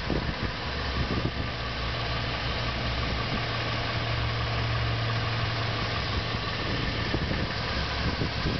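2005 Mercedes-Benz SLK350's 3.5-litre V6 engine idling steadily.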